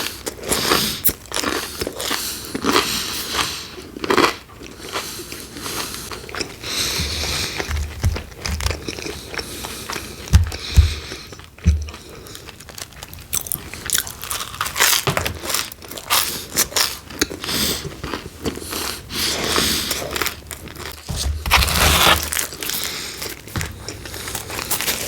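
Close-miked eating of pepperoni pizza: crunchy bites into the crust and chewing, in irregular bursts. A few dull low knocks come about ten seconds in.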